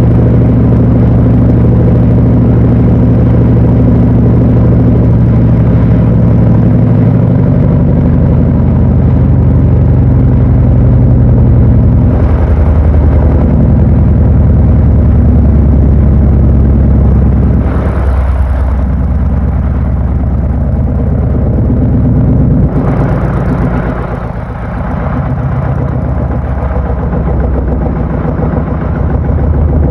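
Panasonic NA-FA80H8 top-loading washing machine running mid-cycle: a loud, steady low motor-and-drum hum whose pitch shifts a couple of times, easing off briefly about 18 and 24 seconds in.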